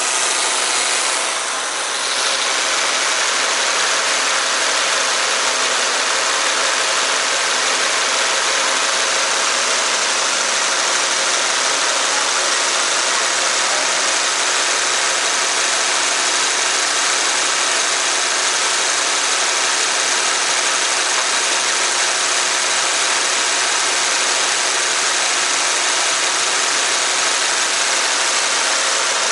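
Honda Accord engine idling with its 10PA17C air-conditioning compressor engaged, giving a steady loud mechanical noise from inside the compressor, the sign of a loose, worn compressor. The level dips briefly about two seconds in.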